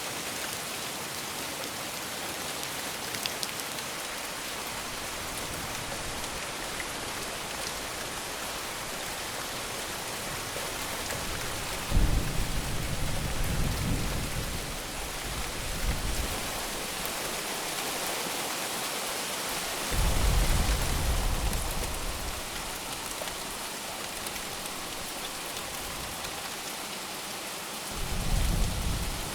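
Heavy rain falling steadily, with three deep rolls of thunder: one about twelve seconds in that fades over several seconds, a shorter one about twenty seconds in, and a last one near the end that cuts off suddenly.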